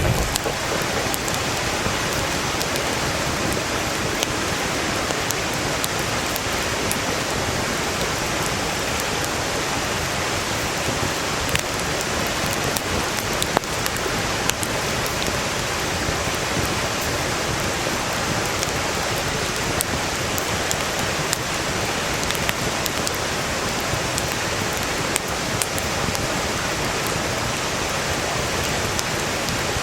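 A stream rushing steadily, with frequent sharp crackles and pops from burning firewood in a campfire.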